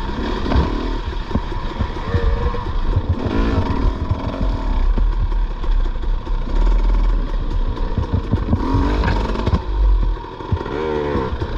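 Dirt bike engine revving up and down repeatedly while riding a rough trail, with frequent knocks and rattles from the bike over bumps and a heavy low rumble.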